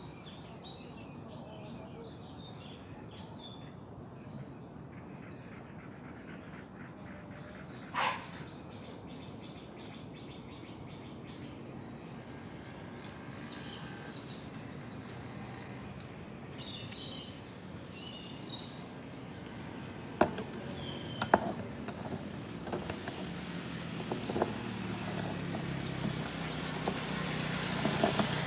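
Insects trilling steadily in the countryside, with small bird chirps now and then. A single rising sweep sounds about a third of the way in and a few sharp clicks come near two-thirds. Near the end a motor's low hum rises as a vehicle approaches.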